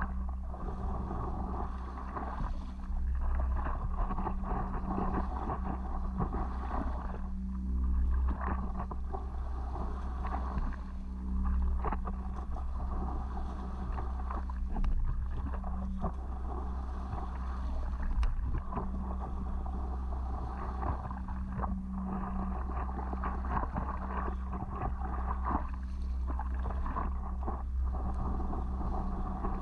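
Water sloshing and paddle strokes around a stand-up paddleboard, with wind rumbling on the microphone and a steady low hum underneath, rising and falling irregularly.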